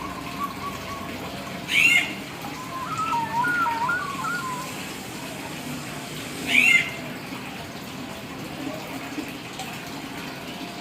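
Hill myna giving two loud, sharp whistled calls about five seconds apart, with a quieter warbling chatter between them.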